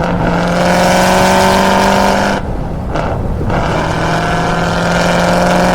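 Vehicle engine held at high revs at full throttle, a fly-by pass. It drops off for about a second, as on a gear change, then pulls hard again.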